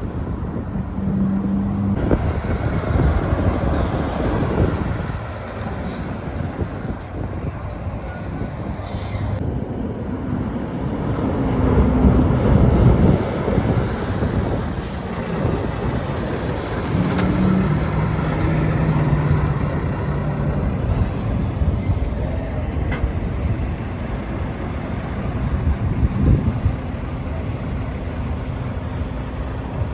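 Heavy trucks passing on a highway: a steady rumble of engines and tyre noise, with a low engine drone that swells and fades. High thin squeals come in twice, a few seconds in and again about two-thirds of the way through.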